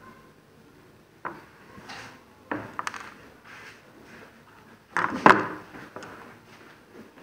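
Handling noises from tools and parts being moved on a work surface: a few scattered clicks and knocks, with the loudest cluster about five seconds in.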